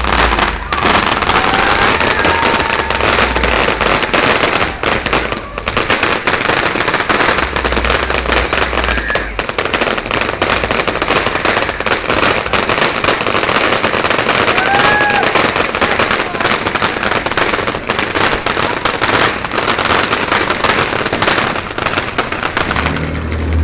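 A T-Rex firework going off with dense, rapid crackling that runs on without a break for over twenty seconds, with a few faint whistles rising and falling through it.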